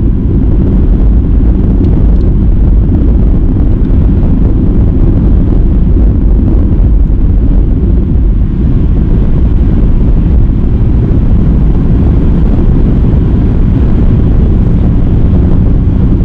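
Steady low rumble of a car on the move: engine and road noise, with some wind on the microphone.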